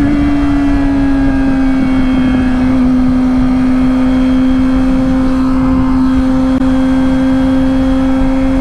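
2005 Kawasaki ZX-6R's inline-four engine holding a steady high-rpm note at highway cruising speed, easing slightly in pitch in the first couple of seconds and then staying level, over a rush of wind noise.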